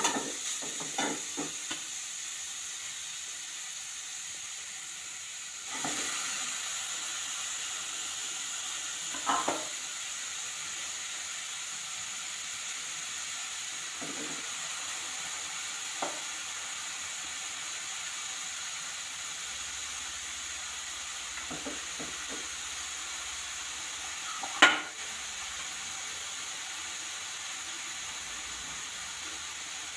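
Grated carrots sizzling steadily in ghee in a pan, with a few scrapes and knocks of stirring; one sharper knock comes near the end.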